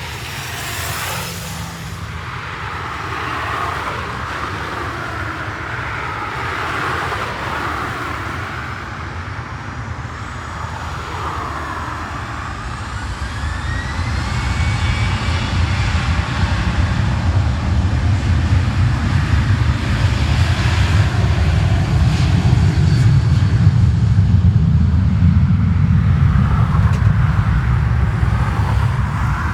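Jet airliner's engines rumbling, with a rising whine about twelve seconds in and a deep rumble that grows louder through the second half as the aircraft passes close.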